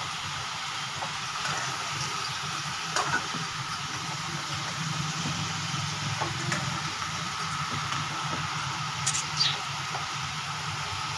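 Chicken chilli with onions, capsicum and tomatoes sizzling as it fries in a metal kadhai, stirred with a slotted metal spoon that clicks and scrapes against the pan a few times. A steady low hum runs underneath.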